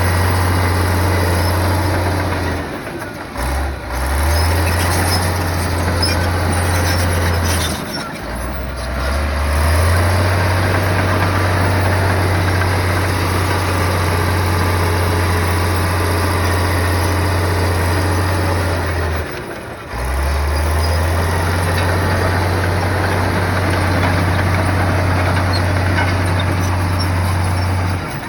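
Bulldozer's heavy diesel engine running with a steady low drone, dropping away briefly three times.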